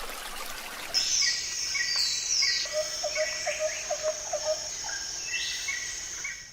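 Forest ambience: a steady high insect drone with several birds calling over it, among them a run of short, low, evenly repeated notes about four a second. The sounds come up about a second in.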